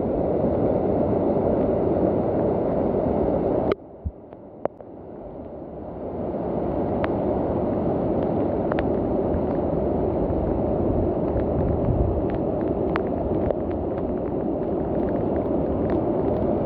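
Steady rushing noise of heavy rain and running rainwater, with faint scattered ticks. It drops away suddenly about four seconds in and swells back over the next two seconds.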